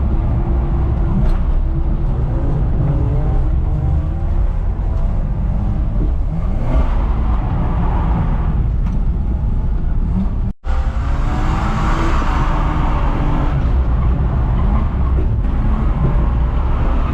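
BMW E46 325Ci's 2.5-litre straight-six revving up and down as the car is driven hard round a drift track, with a split-second dropout about ten seconds in.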